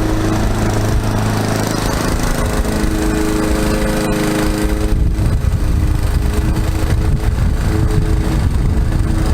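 Gas lawn mower engine running steadily under load; about five seconds in its sound turns rougher and lower.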